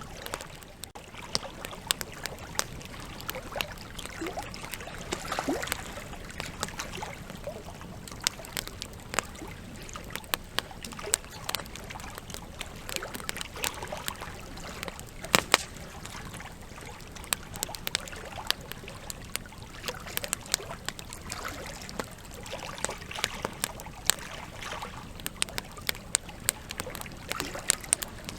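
Wood campfire crackling: irregular sharp pops and snaps from the burning logs over a steady rush of flame, with one louder pop about halfway through.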